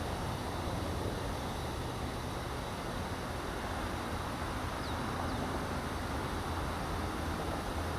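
Steady, even rumble of jet aircraft noise at an airport, with no rise or fall, and two faint short chirps about five seconds in.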